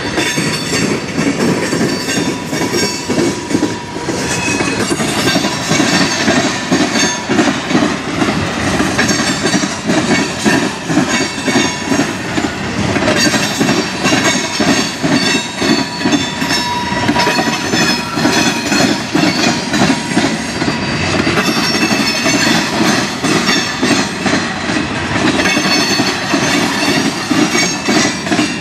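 Freight train tank cars rolling past close by: a steady, rapid clatter of steel wheels over rail joints, with a thin wheel squeal now and then.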